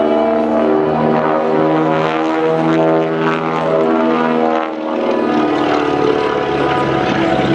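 Twin Beech 18's two radial engines running loudly through an aerobatic pass, with airshow music playing over it; the sound changes about five seconds in.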